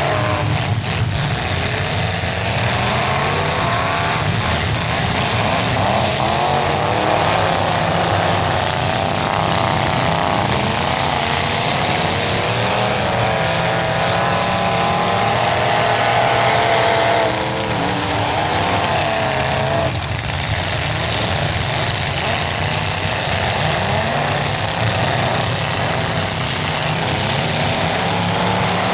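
Several demolition derby cars' engines running and revving together, their pitches rising and falling unevenly as the cars accelerate and push against each other in the mud.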